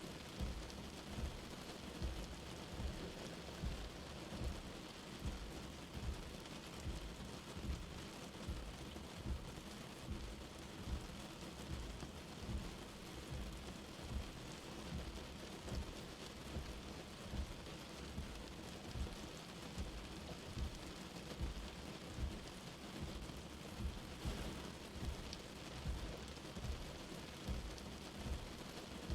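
Light rain falling steadily, with soft low thuds of single drops landing close by, about one a second.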